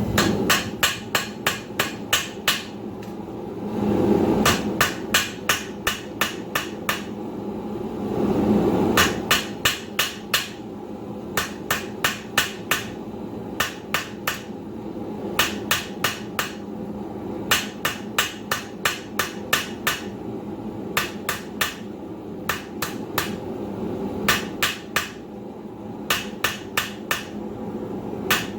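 Blacksmith's hammer striking hot steel on an anvil in quick runs of about four blows a second, with short pauses between runs, drawing out a taper on the bar.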